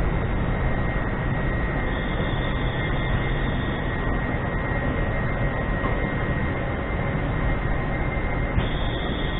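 Steady low rumble and hum, with a thin steady high tone, as an LNER Azuma electric train rolls slowly along the far platform.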